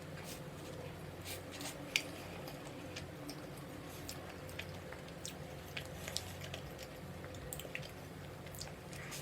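A person chewing food close to the microphone: irregular wet clicks and smacks of the mouth, over a faint steady hum.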